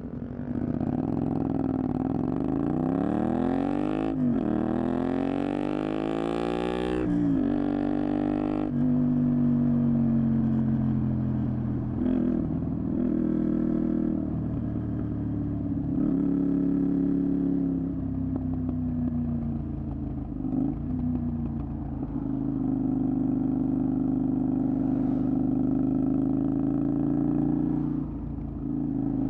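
Honda VTR250's 250 cc V-twin engine through a Moriwaki aftermarket exhaust, accelerating hard through three gears, its pitch rising and then dropping at each shift. It then cruises at steady revs, with a brief easing of the throttle twice.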